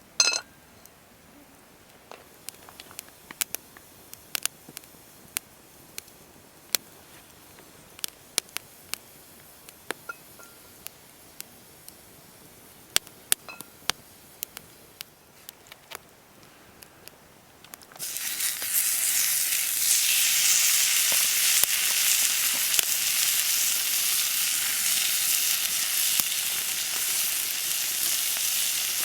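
Food frying in a hot pan: a loud, steady sizzle that starts suddenly about two-thirds of the way in, after a stretch of faint scattered clicks.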